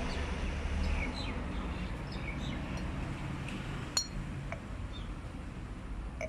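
Small birds chirping with many short, quick falling notes over a steady low rumble, and a single sharp metallic clink about four seconds in.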